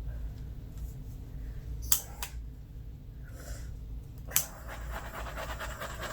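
Handheld butane torch being lit: a couple of igniter clicks, then a sharper click about four seconds in as it catches, followed by the steady fluttering hiss of the flame, used to pop bubbles in freshly poured resin.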